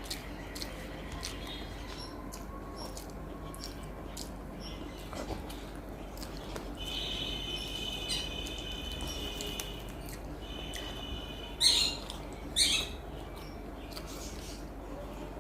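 A bird chirping in a high held call twice in the middle, over a steady low hum, with two short, loud noisy sounds about twelve seconds in.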